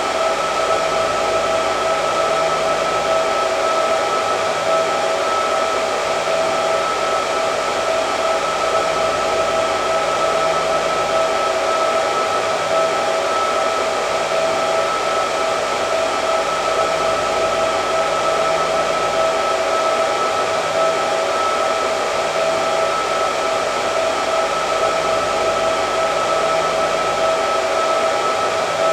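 Hair dryer running continuously: a steady rush of blown air with a constant motor whine in it.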